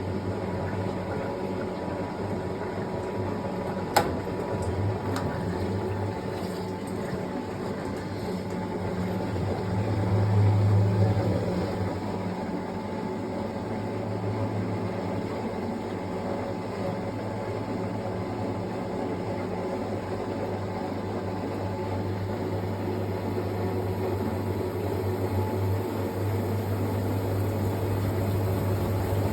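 Fisher & Paykel GW712 top-loading washing machine running mid-cycle: a steady motor hum that swells for a couple of seconds about ten seconds in, with a single sharp click about four seconds in.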